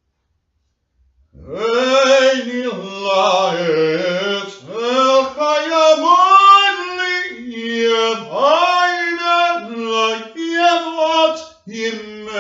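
A lone man's voice chanting an unaccompanied melody in held notes that slide between pitches, starting about a second and a half in.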